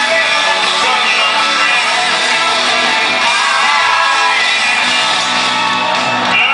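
Live rock band playing loud with a lead singer and guitars.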